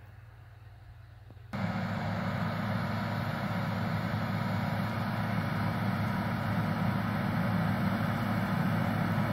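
Case IH Magnum 7120 tractor's diesel engine running steadily while baling hay. It comes in suddenly about a second and a half in and grows slightly louder; before that there is only a faint low hum.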